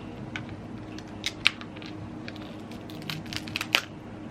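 Sharp cracks and crackles of seafood shells being broken open by hand: a few snaps, the loudest about a second and a half in and a quick cluster near the end, over a steady low hum.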